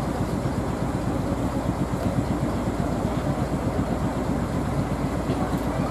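Steady low rumble of trains standing at the platform with their equipment running, without change.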